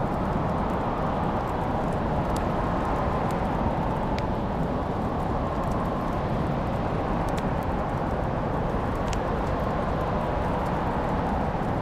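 Wood fire crackling: sharp little pops every second or two over a steady low rushing noise.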